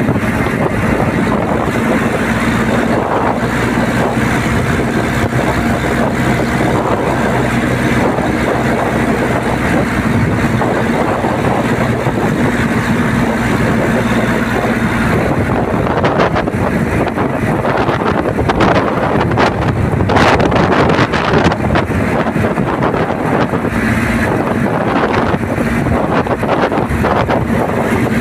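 An engine running steadily, with wind buffeting the microphone, the buffeting growing rougher about halfway through.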